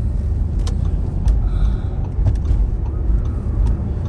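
Car in road traffic: a steady low rumble of engine and road noise.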